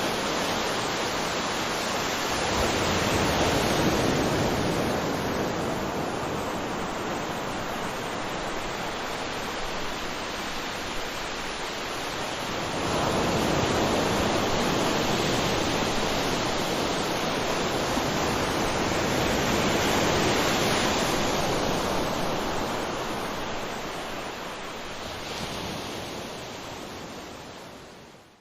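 Waterfall: a steady rush of falling water that swells louder twice, then fades out to silence at the very end.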